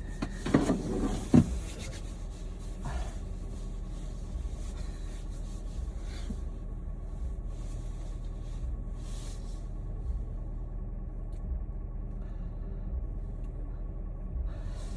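Four-wheel-drive car's engine running at a steady low rumble, heard from inside the cabin. Some rustling and a sharp knock in the first second or two.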